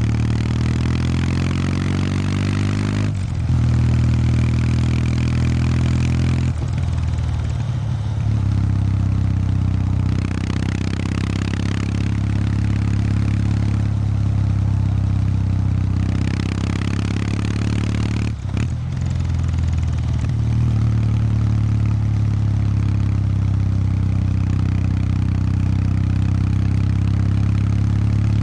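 Kawasaki W800 Street's air-cooled parallel-twin engine running through its stock exhaust under way, a steady low engine note. The note breaks briefly three times, about three seconds in, about six seconds in, and about two-thirds of the way through, as the throttle eases and picks up again.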